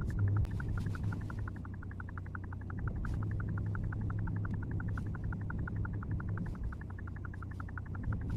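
Car driving, recorded from inside by a dashcam: a steady low engine and road hum. Over it runs a rapid, even train of high pulses, about eight a second.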